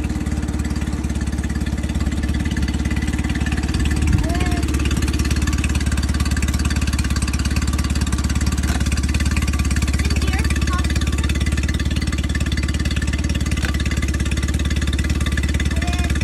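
A 2015 Mercury 8 horsepower four-stroke outboard motor idling steadily. A single short knock about four seconds in.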